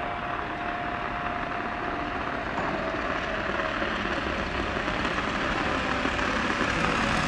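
ÖBB Railjet express hauled by a Class 1116 Taurus electric locomotive approaching on the track. Its running noise grows steadily louder, with a faint steady whine over the rumble.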